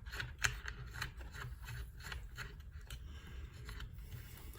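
Faint scattered clicks and light rubbing of small metal parts being handled, as a nut is fitted by hand onto the back of a headlight-assembly part.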